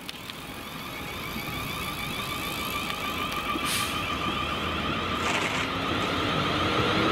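A Class 450 Desiro electric multiple unit approaching, its sound growing steadily louder as it nears, with a steady high-pitched ringing tone over a hiss.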